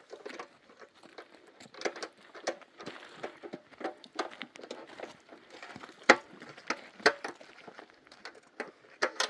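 An irregular clatter of sharp clicks and light knocks, as of hard objects being handled, with the loudest knock about six seconds in.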